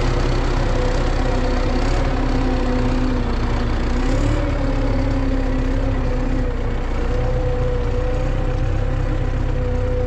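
Tractor diesel engine running steadily at low revs, a constant deep hum with a faint whine that wavers slightly in pitch.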